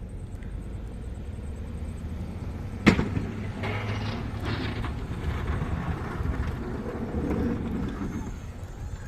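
A vehicle engine running steadily, with one sharp bang about three seconds in, then a louder stretch of rushing, scraping noise for about five seconds.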